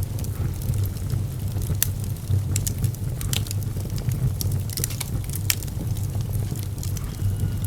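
Fire burning in a fireplace: a steady low rumble of flames with irregular sharp crackles and pops, a few of them louder than the rest.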